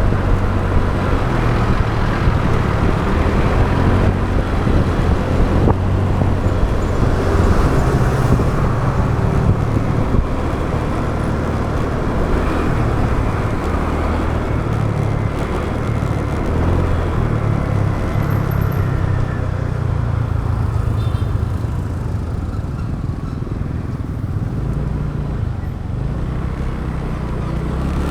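Motorbike riding noise: wind rumbling over an action camera's microphone, mixed with the bike's engine and surrounding road traffic. It eases slightly near the end.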